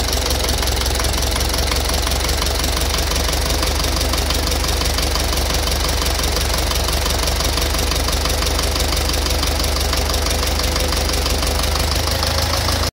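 Engine idling steadily with a fast, regular knock coming from inside it.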